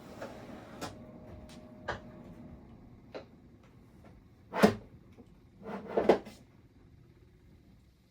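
Kitchen cupboard doors and containers being handled while looking for food: a string of separate clicks and knocks, the loudest about four and a half seconds in, with a short cluster of knocks around six seconds.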